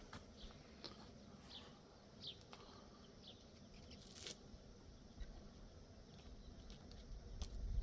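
Faint outdoor ambience: a few short, high, falling chirps in the first few seconds and scattered light clicks over a low rumble that builds toward the end.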